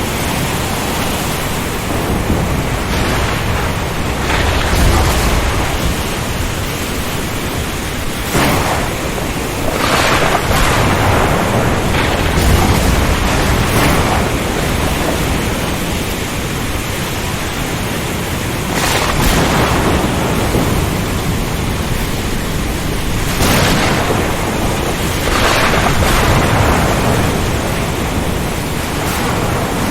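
Storm at sea: a steady rush of strong wind and rain over a deep low rumble, with waves surging up and falling back several times.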